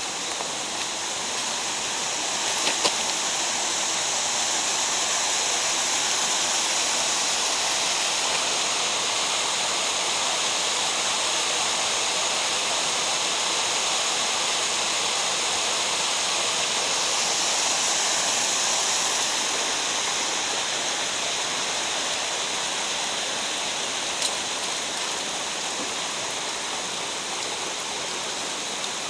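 Steady rushing of a mountain stream and its falls in a rocky gorge. It swells slightly over the first few seconds and eases a little near the end, with a couple of faint clicks.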